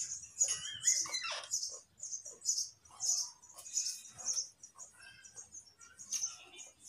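Raw carrot being chewed with the mouth closed: crisp, wet crunches repeating about twice a second.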